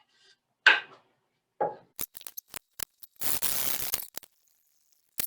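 Wood and hand tools being handled on a workbench while a board is set up for a saw cut: two knocks, a run of light clicks, a scrape of about a second, then another click.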